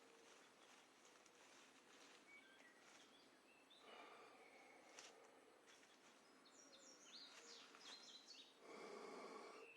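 Near silence: faint bird chirps with quick pitch glides, and two soft rushing sounds, one about four seconds in and a louder one near the end.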